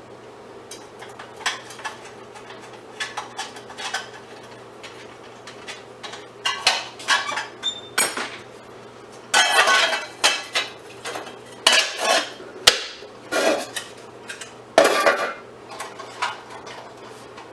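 Scrap metal parts from dismantled fluorescent light fixtures clinking and clattering as they are handled and set down, in scattered knocks, a few of them ringing briefly, busier in the second half. A faint steady low hum runs underneath.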